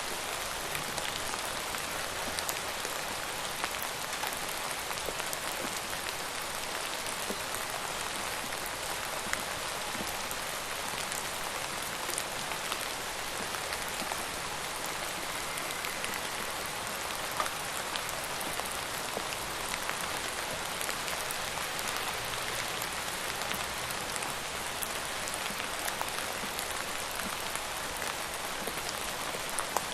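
Steady rain falling, a dense even hiss with scattered sharper ticks of individual drops hitting a surface.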